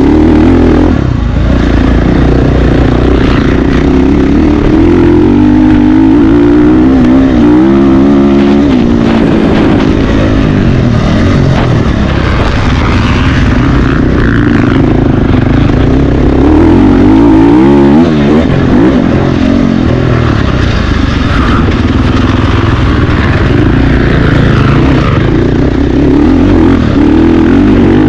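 Motocross bikes racing, engines revving up and dropping back repeatedly as riders work the throttle and shift through gears, loud throughout.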